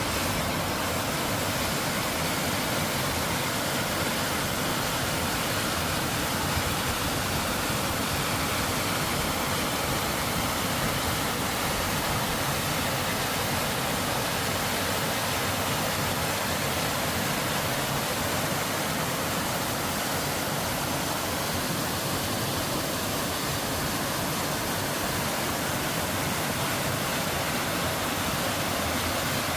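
Mountain valley stream rushing, a steady, unbroken flow of water.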